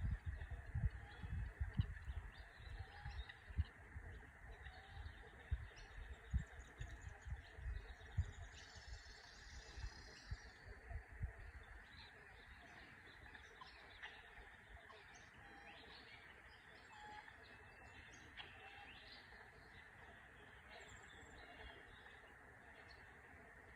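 Small birds chirping and singing faintly over a steady background hiss, with many short calls scattered throughout. Low thumps on the microphone through the first half stop about halfway through.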